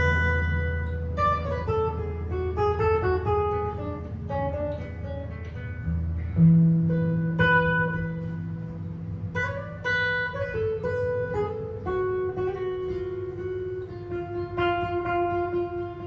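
Improvised jazz guitar: single plucked melody notes and short chord figures ring over held low bass notes, with the bass note changing about six seconds in.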